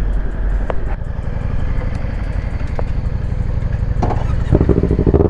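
A motorcycle engine running as the bike rides along at low speed. It grows louder about four and a half seconds in as the throttle opens.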